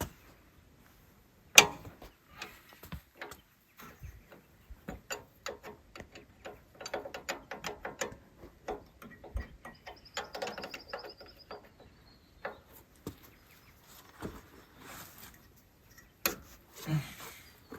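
Hand tools clicking and clinking on metal in irregular runs, with a sharp knock about a second and a half in and another near the end. This is work on an excavator's diesel injection pump, replacing leaking O-rings.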